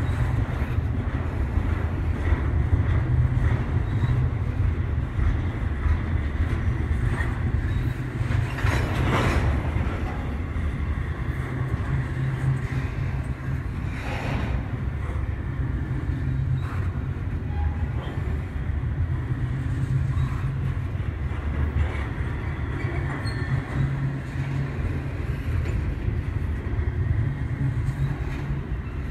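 Double-stack intermodal container train rolling steadily past: a continuous low rumble of well-car wheels on the rails, with faint clickety-clack.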